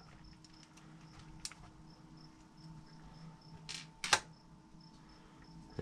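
Quiet handling of small RC crawler parts while a wheel is being removed: a few light clicks, the loudest about four seconds in. Under them run a faint steady hum and a faint high tone that pulses evenly.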